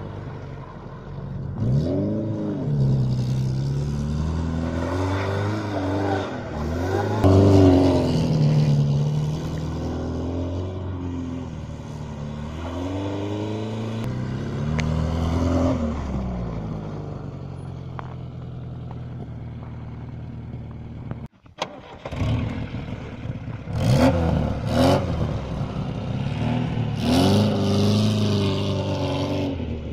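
VAZ 2106 (Lada) engine revving hard and falling back again and again as the car is drifted in winter conditions. There is a brief cut-out about two-thirds of the way through.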